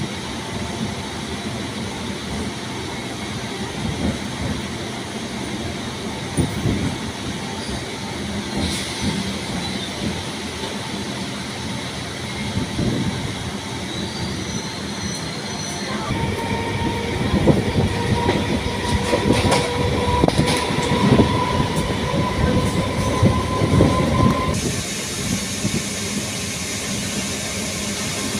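MEMU electric train running, heard from on board: rumble with wheels clacking over the rail joints. About halfway in it gets louder and a steady high squeal or whine sets in, rising slightly in pitch for about eight seconds, then stops abruptly.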